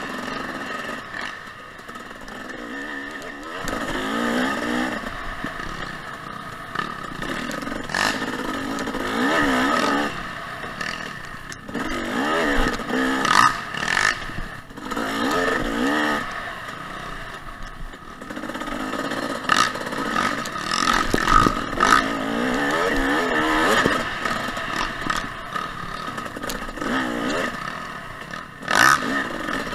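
A two-stroke 250 dirt bike (2014 Husqvarna TC 250) riding a trail, its engine revving up and falling back again and again as the throttle is worked. Scattered clattering knocks come from the bike over rough ground.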